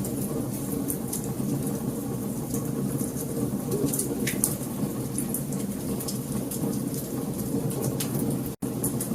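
Wood fire burning, with frequent sharp crackles and pops over a steady low rumble. The sound cuts out for an instant near the end.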